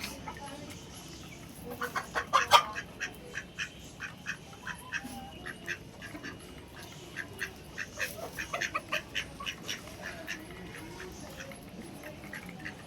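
Domestic ducks quacking in short, repeated calls, often several a second, loudest a couple of seconds in.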